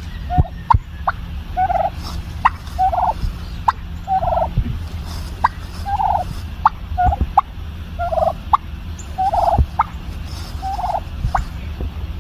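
Domestic turkey hen making short, soft calls about once a second, with sharp little pops between them: the little bubble popping noises she makes.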